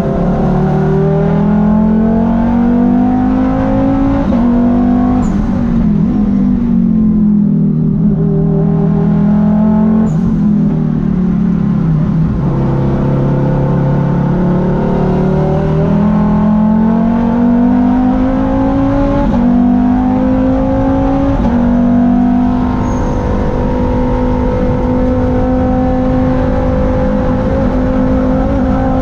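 Volvo T5 turbocharged five-cylinder race engine heard from inside the cabin. Its revs fall off under braking into a corner, then climb hard again with two quick upshifts about two-thirds of the way through, and it holds steady at high revs near the end.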